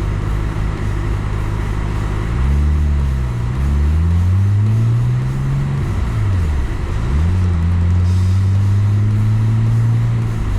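Car engine pulling away and accelerating through the gears: the engine note rises, drops at each shift, and rises again.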